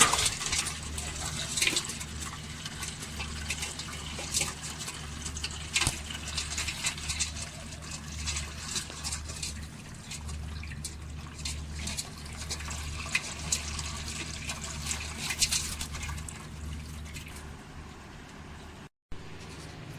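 Water splashing and trickling, with many scattered small clicks over a steady low hum.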